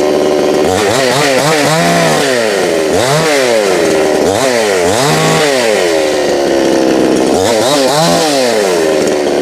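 Chainsaw engine running, its revs rising and falling about five times.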